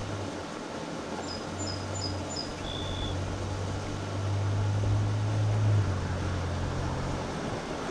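Low engine hum of a passing vehicle, swelling about halfway through and then fading. A bird gives four quick high chirps about a second in.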